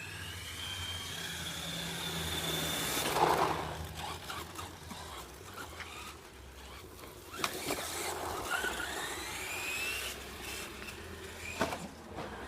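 Redcat Volcano RC car's motor whining, rising in pitch as it speeds up, twice. A short noisy burst comes about three seconds in, and a few sharp clicks come later.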